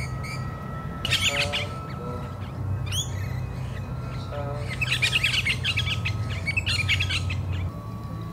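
Birds chirping and calling in several bursts, loudest about a second in and again from about five to seven seconds in. A steady low hum and a thin steady high tone run beneath them, and the hum drops away near the end.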